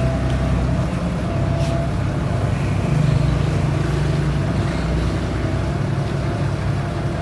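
Steady low drone of a running machine, most likely the bending machine's motor, with a thin higher tone over it and a slight swell about three seconds in.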